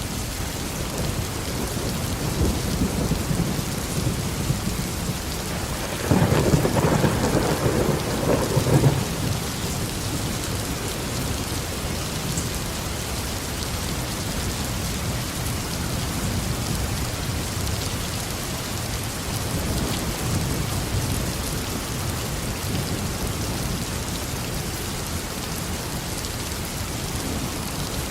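Steady tropical rain falling, with thunder rumbling. The loudest roll of thunder comes about six seconds in and lasts about three seconds, with fainter rumbles before and later.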